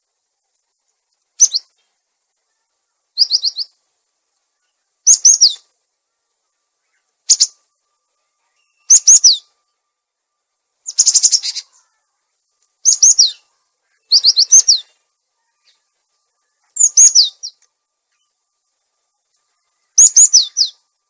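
Gelatik batu (cinereous tit) lure call: about ten short clusters of high, sharp chirps, each lasting well under a second, with one to three seconds of silence between them.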